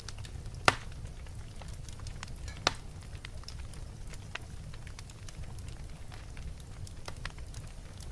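Wood fire burning in a fireplace, crackling steadily with scattered small snaps over a low, steady rumble. Two sharp, loud pops stand out within the first three seconds.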